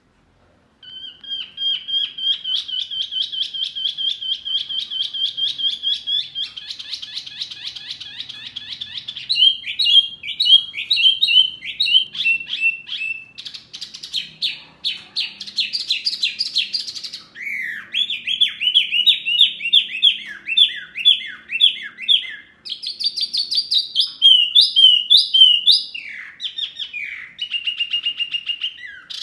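Songbird song from a masteran track, played to caged birds to teach them to sing. After about a second of silence comes a long, fast trill of rapid chirps. It gives way to a run of varied whistled phrases and quick down-slurred notes.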